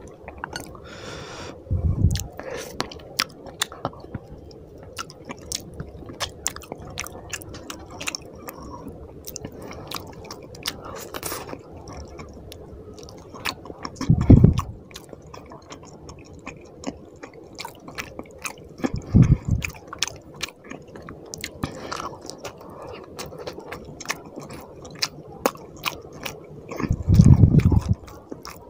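Close-up chewing and lip-smacking of someone eating rice and fish curry by hand, with many quick mouth clicks. Four louder low thumps stand out, spread through the stretch.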